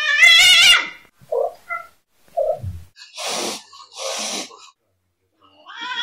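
Domestic cats: a loud, wavering meow at the start, a few short chirps, two breathy hisses in the middle, then another long meow starting near the end.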